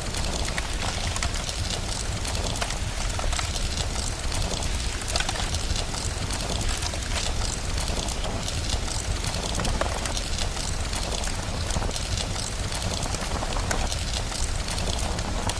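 Rain falling steadily mixed with a crackling fire: a dense hiss peppered with many small snaps and pops over a steady low rumble.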